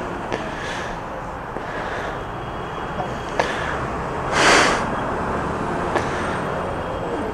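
Steady road-traffic rumble, with a short loud hiss about four and a half seconds in and a few light clicks.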